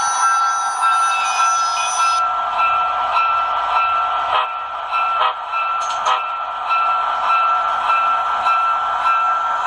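A QSI Titan-U sound decoder in a model Union Pacific DD40X locomotive, played through its speakers: a steady diesel engine sound with a locomotive bell ringing about twice a second. A high tone cuts off about two seconds in, and a few sharp clicks fall near the middle.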